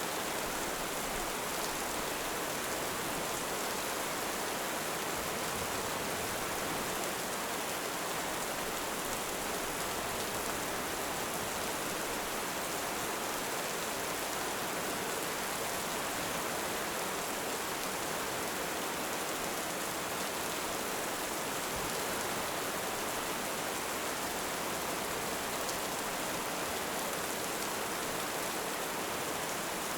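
Heavy rain falling steadily, an even hiss with no thunder or surge of waves standing out.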